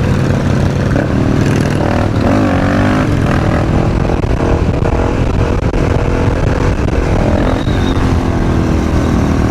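Supermoto motorcycle engine running under way, its revs rising and falling several times as the throttle is worked.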